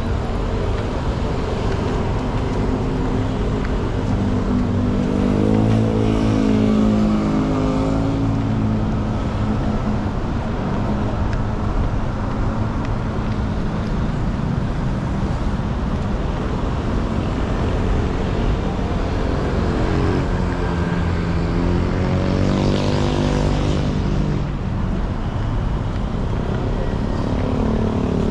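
Busy road traffic from the roadside: a steady rumble, with vehicle engines passing close by twice, about five seconds in and again about twenty seconds in.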